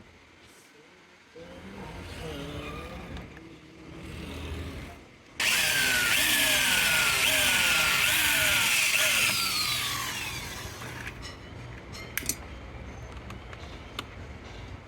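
Handheld electric power tool switched on suddenly and run for about four seconds, its pitch dipping and recovering as it bites under load, then falling as it winds down. A lower motor-like hum wavers in pitch before it, and a few sharp clicks follow.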